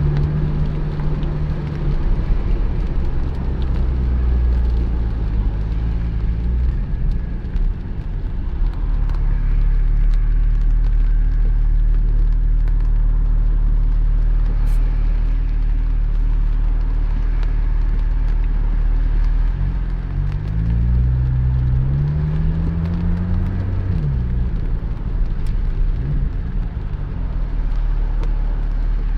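Porsche 718 Spyder's flat-six engine running while the car is under way, over steady road and tyre noise. About twenty seconds in, the engine note rises over a few seconds as the car accelerates, then drops sharply with a gear change.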